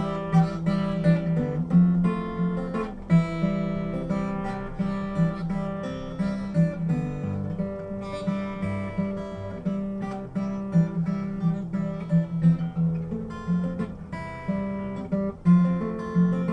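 Acoustic guitar strummed and plucked in an instrumental passage of a song, with regular strokes.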